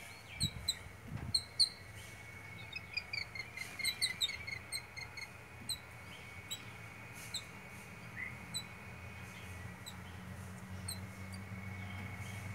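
Small birds giving short, high chirps, many in quick clusters in the first few seconds and more scattered after that.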